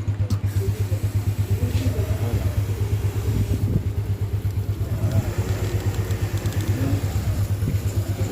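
Diesel engine of a heavy machine running steadily with a fast, even throb.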